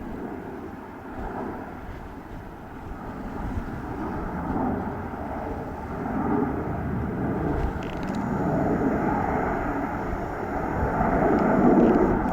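Jet engine rumble of an Airbus A320-214's CFM56 turbofans, swelling and ebbing in waves and growing louder towards the end.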